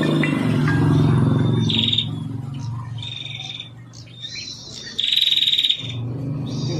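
A prenjak (prinia) singing: a series of short, high, buzzy, rapid trills, each lasting about half a second to a second. The loudest trill comes about five seconds in. A low steady hum runs underneath at the start and again near the end.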